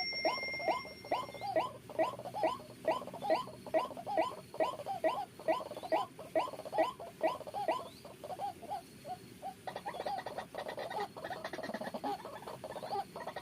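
White-breasted waterhen (ruak-ruak) calling: a harsh note repeated quickly and evenly, about two to three times a second. After about nine seconds the calls weaken and are mixed with clicking and rustling.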